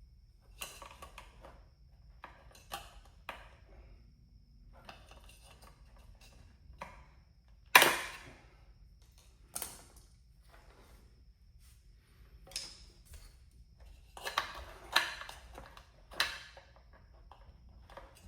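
Hands handling shop-vacuum parts and tools on a workbench: a series of clicks, clacks and knocks, with the loudest knock about eight seconds in and a quick cluster of clatters near the end.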